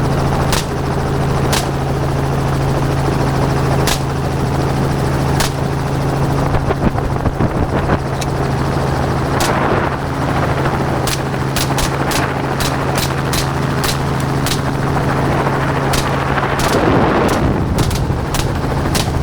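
Helicopter engine and rotor hum running steadily while rifles fire shot after shot at hogs below. The shots come singly at first, then close together in a quick run partway through. The rotor hum changes near the end.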